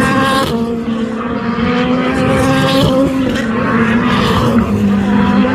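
Race cars running at speed on the circuit: a loud, steady engine drone whose pitch shifts as the cars pass, dipping about four and a half seconds in.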